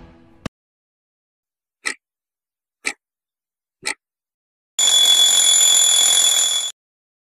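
Sound effect of a clock ticking three times, about a second apart, followed by an alarm clock ringing for about two seconds and cutting off suddenly.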